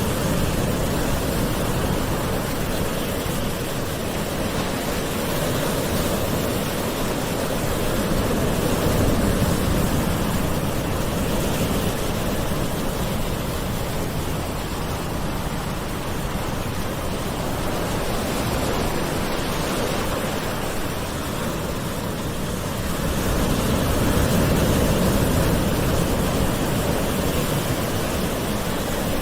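Gentle sea waves washing onto the shore: a steady rushing wash that swells softly twice, about nine seconds in and again near the end.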